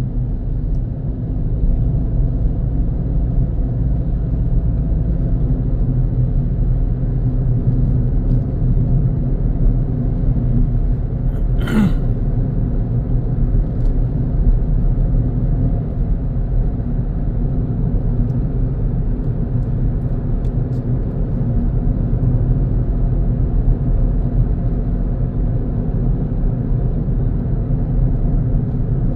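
A car on the move: steady low rumble of engine and tyre road noise, heard from inside the car. A single short click about twelve seconds in.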